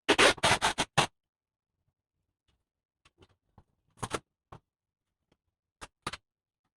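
Scraping and clicking of laptop parts being handled during a screen repair: a quick run of about five scrapes in the first second, then a few lighter clicks and taps later on.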